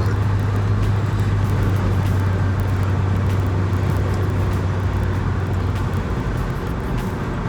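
Road and engine noise heard from inside a moving Nissan Maxima: a steady low drone over tyre rumble, which eases off about six seconds in.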